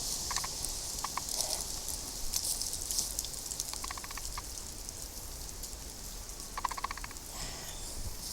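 Footsteps and brushing through woodland undergrowth, with scattered crackles and a steady high hiss. Twice, about four seconds in and again near the end, comes a short rapid rattle of evenly spaced clicks.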